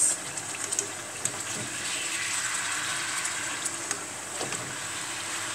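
Tuna steaks sizzling in olive oil in a frying pan, a steady hiss, with a few light clicks of a plastic spatula against the pan near the start.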